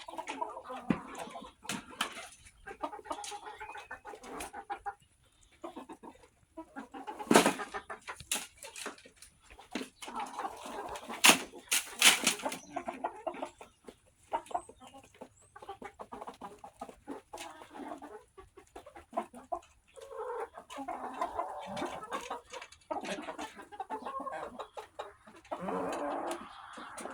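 Backyard chickens clucking softly and steadily, with many sharp clicks and taps among the calls; the loudest taps come around a third of the way in.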